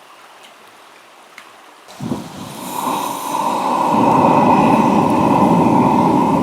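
Camp stove burner lit to heat water: after a small click, a steady rushing flame sound starts about two seconds in, builds over the next two seconds and holds loud and even, then stops abruptly near the end.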